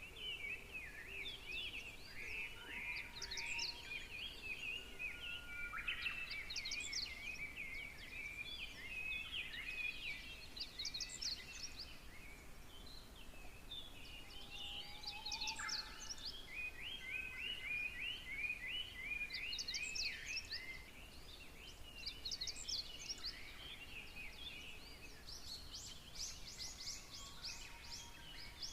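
Several songbirds singing: continuous twittering, with one bird repeating a short, high phrase about every four seconds.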